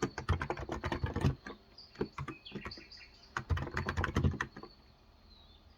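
Typing on a Cox Endeavour electrostatic-capacitive (Topre-style) tenkeyless keyboard with light 35 g switches, in two quick bursts of keystrokes with a pause between. Birds chirp in the background during the pause.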